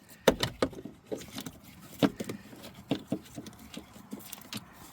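Hands working a plastic wiring-harness connector loose at a van's heater blower motor: irregular sharp plastic clicks and rattles, the loudest about a quarter second in and about two seconds in.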